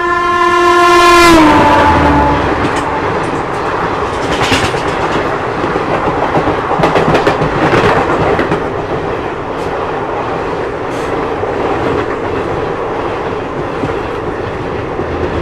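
An oncoming Garib Rath express train sounds one long horn blast, which drops in pitch about a second and a half in as it draws level and then fades. The horn gives way to loud, rapid clickety-clack of wheels over rail joints as the coaches rush past.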